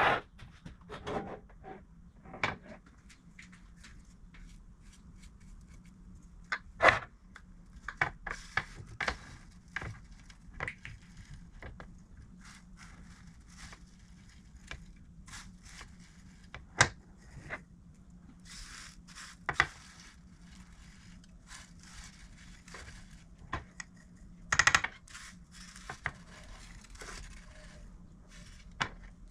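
Irregular clicks, knocks and short scrapes of small objects being handled on a workbench, with a few sharper knocks about 7, 17 and 25 seconds in.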